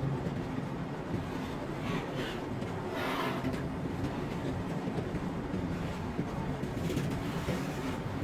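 Loaded freight wagons rolling past on the rails, a steady rumble of wheels on track, with a brief higher-pitched noise about three seconds in.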